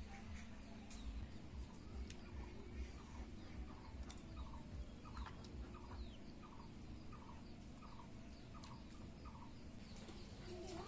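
A bird calling: a short rising note repeated about twice a second for several seconds, starting a few seconds in, over a steady low hum.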